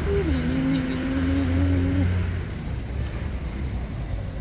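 City street traffic: a vehicle engine hum that drops in pitch in steps during the first two seconds, over a steady low rumble.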